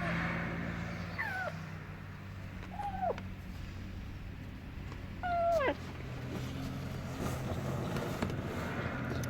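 A kitten meowing four times, each meow short and falling in pitch; the last, about five seconds in, is the longest and loudest. A steady low hum runs underneath.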